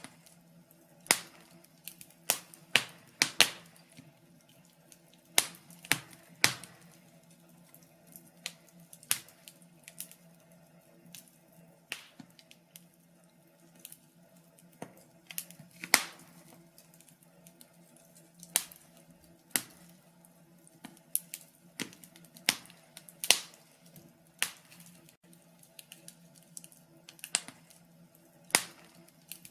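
Wood fire crackling in a fireplace: irregular sharp snaps and pops, one to several a second, some much louder than the rest, over a faint steady low hum.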